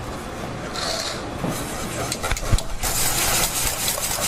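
Kitchen clatter of dishes and utensils clinking, with a few sharp knocks a little past halfway. A steady hiss sets in about three seconds in.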